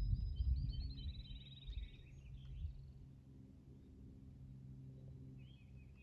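A bird gives a quick trill of high notes that falls in pitch over about a second, starting about half a second in, with a few fainter high notes near the end. Under it is a low rumble that fades after about two seconds.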